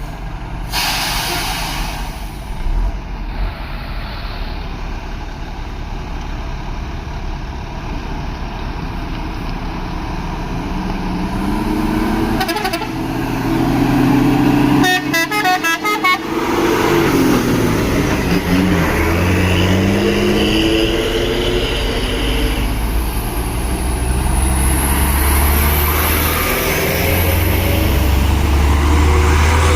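Heavy diesel truck engines running and revving on a steep climb, their pitch rising and falling through the middle, with a vehicle horn sounding.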